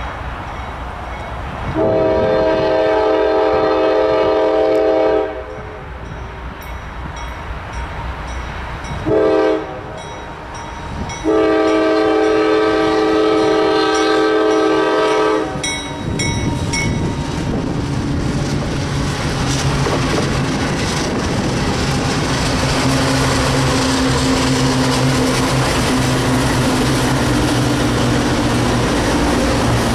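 Lead CSX locomotive's Nathan K5LA air horn blowing a crossing signal: a long blast, a short one, then another long blast. From about halfway through, the train's GE diesel locomotives and cars pass close by with a steady heavy rumble of engines and wheels on rail.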